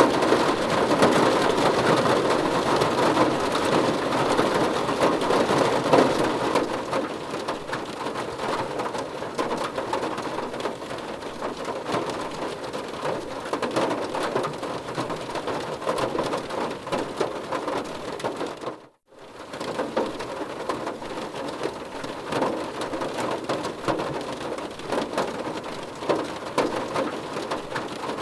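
Heavy rain falling and pattering on a surface: a dense hiss of drops, heavier for the first several seconds and then easing, with a brief cut to silence about two-thirds of the way through.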